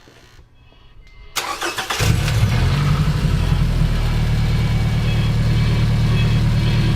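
2012 Scion tC's 2.5-litre four-cylinder engine cranked by the starter for about half a second, catching about two seconds in, flaring briefly and then settling into a steady idle.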